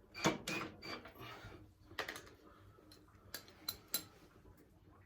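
Scattered sharp clicks and clinks of metal hand tools and sockets being handled during a teardown: a quick cluster at the start, then single clicks spaced about half a second to a second apart.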